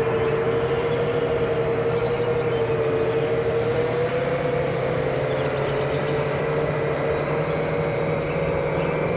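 FPV quadcopter's four T-Motor 2207.5 brushless motors and Gemfan tri-blade props running in cruise: a steady whine whose pitch wavers slightly with throttle, over a rushing noise.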